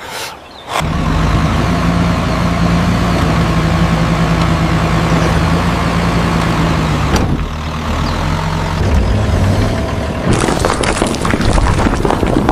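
Tractor engine starting abruptly about a second in and then running steadily, its low hum shifting slightly partway through; near the end a crackling, rattling noise joins it.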